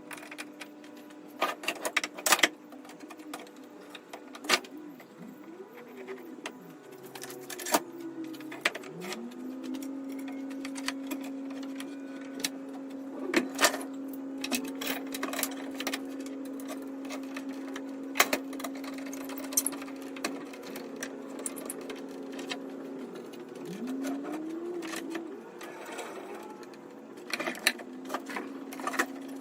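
Small electric power-tool motor switched on and off several times: each time it spins up to a steady whine and later winds down, with its longest run lasting about fourteen seconds mid-way. Sharp knocks and clicks come in between.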